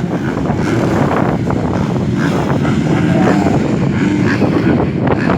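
A pack of MX2 motocross bikes running together, many engines revving at once with pitch rising and falling, with wind buffeting the microphone.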